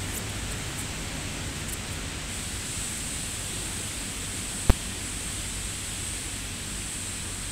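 Steady hiss of falling rain, with a single sharp click a little past halfway through.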